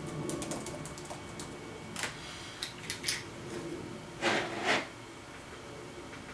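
Scattered light clicks and several short scratchy rustles in a small room, the two loudest close together just past the middle.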